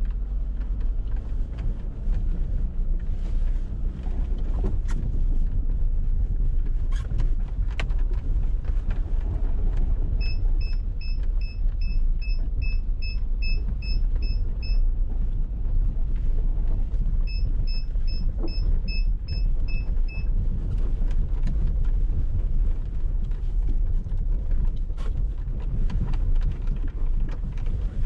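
Dacia Duster's 1.6 SCe naturally aspirated four-cylinder petrol engine and road noise as a steady low rumble inside the moving car. Twice in the middle, a run of short, high electronic ticks about three a second sounds for a few seconds.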